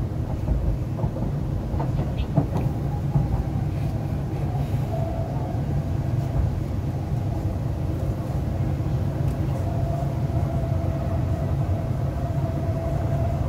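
MTR East Rail Line R-Train (Hyundai Rotem electric multiple unit) running along the line, heard from inside the carriage: a steady low rumble of wheels on track with a few light clicks in the first seconds. A faint steady whine sits above the rumble around the middle and again through the second half.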